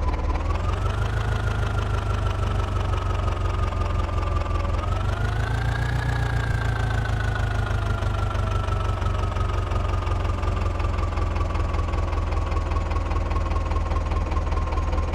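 Sonalika tractor's diesel engine running steadily. It revs up about a second in and again around five seconds, then slowly eases back down.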